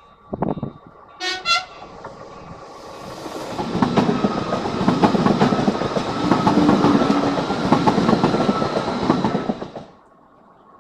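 A Renfe train gives a short horn blast about a second in, then passes at speed, its wheels clacking steadily over the rail joints. The passing noise builds up, stays loud, and cuts off suddenly near the end.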